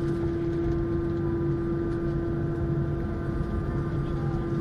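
Airbus A321 cabin noise heard from a window seat: the jet engines' steady drone with a constant hum and rushing air, unchanging throughout.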